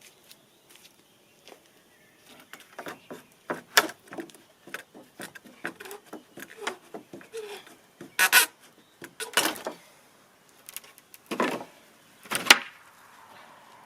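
Irregular clattering and knocking of objects being handled, with several louder bangs in the second half.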